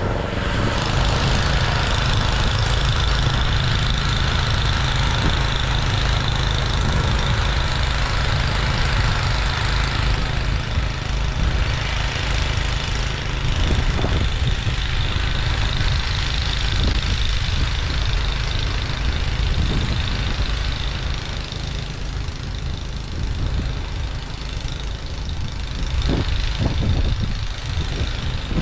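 Toro 826LE two-stage gas snowblower running steadily under load while throwing snow, with a few short knocks near the end.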